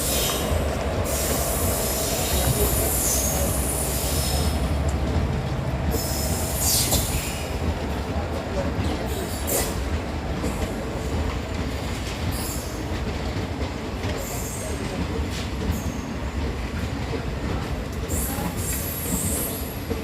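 Passenger train arriving at a platform: coaches rolling past with a steady low rumble, the wheels squealing on and off every few seconds.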